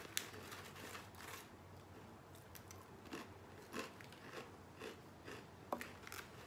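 Faint crunching and chewing of truffle potato chips: short crisp crackles at irregular intervals as they are bitten and chewed.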